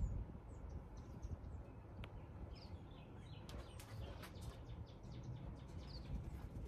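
Faint background of small birds chirping in short, scattered high notes over a low rumble, with a few light clicks from about three and a half seconds in.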